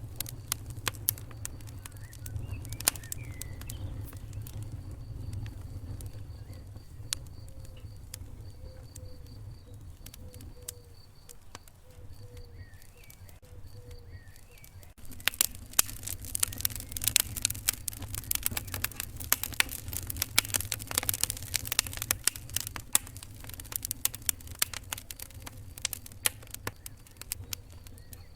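Wood fire crackling, with a steady low rumble and scattered sharp pops that turn much denser and more frequent about halfway through.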